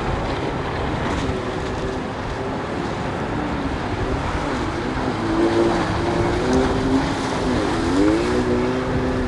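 Outboard motor of an inflatable boat running under way, its pitch shifting with the throttle and dipping then rising again near the end, over wind and water noise.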